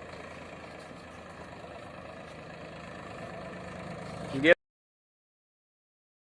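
Diesel tractor engine idling steadily. About four and a half seconds in there is a brief, loud rising sound, and then the audio cuts out to complete silence.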